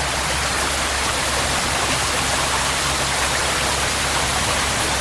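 Fast-flowing stream rushing over rocks, a steady, even rush of water.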